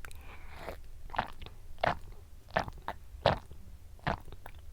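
Close-up eating sounds: chewing with short, crisp bites at a steady pace of about one every 0.7 seconds.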